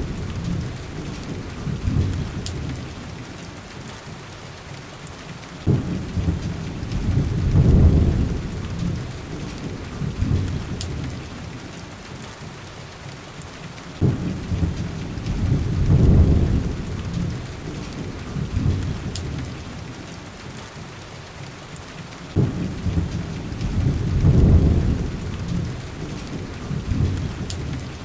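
Steady heavy rain with low, rolling thunder rumbles. Three rumbles come about eight seconds apart, each starting suddenly, swelling and then fading away. A few faint sharp ticks sound over the rain.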